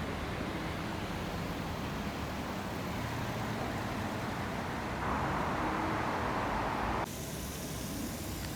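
Steady rushing noise of a severe storm's wind and rain. It swells for about two seconds near the end, then drops off abruptly.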